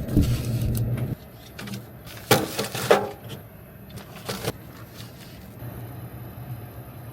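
A low rumble that stops about a second in, then a few short rattling clatters and knocks, over a faint steady low hum.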